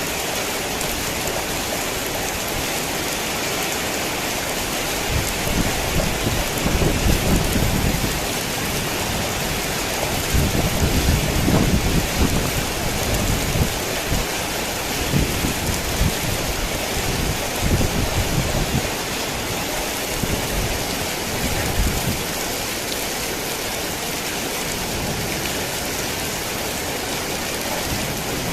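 Heavy rain falling steadily, with thunder rumbling low through the middle stretch, loudest about halfway through, then dying away to rain alone near the end.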